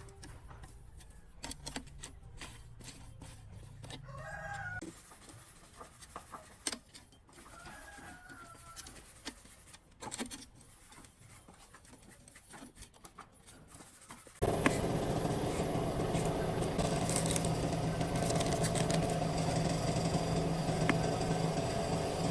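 Light clicks and knocks of parts being handled, with two short bird calls in the first half. About two-thirds in, a workshop machine starts abruptly and runs steadily with an even hum.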